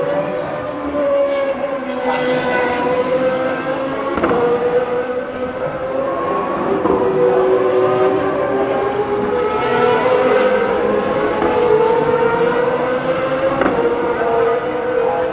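GP2 race cars' Mecachrome V8 engines screaming at high revs, several engine notes overlapping and rising and falling in pitch as the cars accelerate and shift. A few sharp cracks come through, about two and four seconds in and again near the end.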